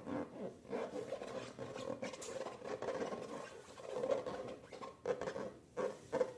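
Slime being squeezed and worked by hand, with a run of small sticky pops and crackles.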